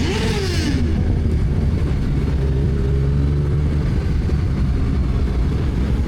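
Yamaha FZ8's inline-four engine running steadily under way. In the first second there is a brief hiss and a note falling in pitch.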